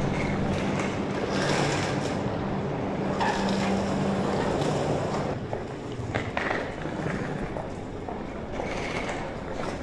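Metro train running, heard from inside the carriage: steady rolling noise with a low motor hum that fades out about four and a half seconds in.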